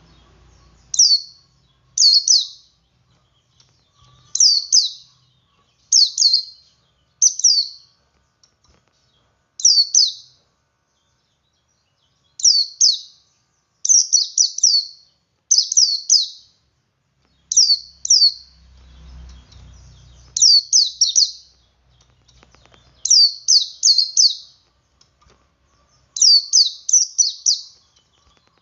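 Male white-eye (pleci) singing its ngalas song: short, high chirps that sweep downward, given singly or in quick runs of two to four, every second or two.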